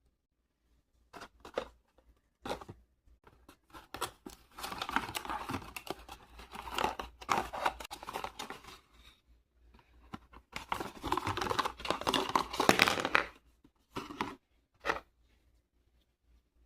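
Close-up crinkling and tearing sounds, like a thin wrapper being handled. There are a few short crackles, then two long stretches of rough, dense crinkling, and two more short crackles near the end.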